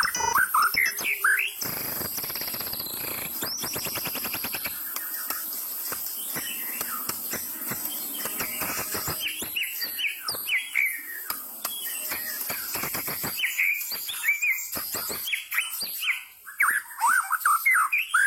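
White-rumped shama (murai batu) singing in full voice: quick, varied phrases of whistles and sweeping notes, with a long stretch of dense, rapid scratchy chatter in the middle.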